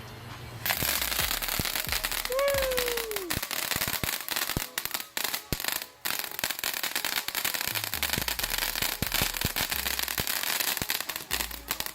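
Short Stack consumer fireworks fountain crackling: a dense, rapid stream of sharp snaps that starts abruptly about a second in and thins out near the end. A brief falling whistle-like tone sounds about two seconds in.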